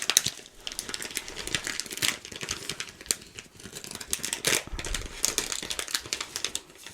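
Close-up, irregular crinkling and crackling of a plastic wrapper being handled.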